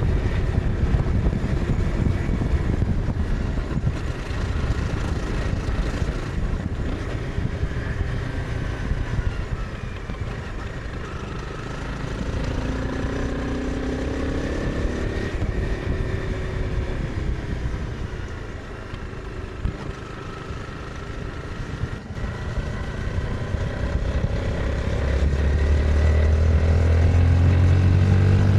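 Honda CBR 250R's single-cylinder 250cc engine under way, its pitch rising and falling as the bike slows for and pulls out of bends. It eases off and drops quieter about two-thirds of the way through, then climbs in pitch and gets louder under hard acceleration near the end.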